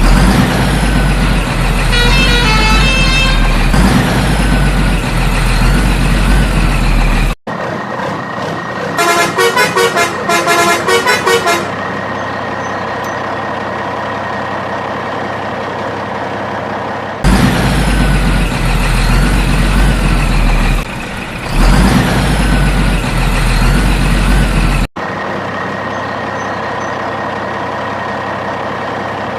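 Truck engine sound effects cut together in loops: a heavy engine running loud, then cutting suddenly to a steadier idle, with a quick run of short horn toots about nine seconds in. The same sequence repeats about halfway through.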